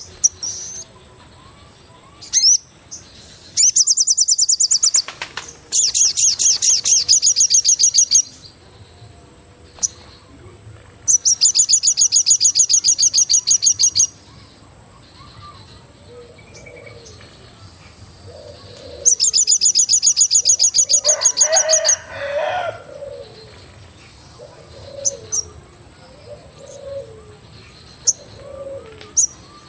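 Forest birds calling: a loud, rapid, pulsed trill comes in bouts of two to three seconds, four times, with soft low cooing notes in the quieter stretches between.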